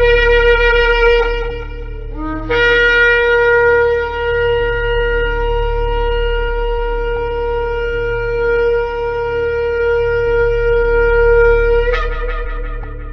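Shofar (ram's-horn trumpet) blown: a short blast, a brief break, then one long steady blast that leaps up in pitch near the end.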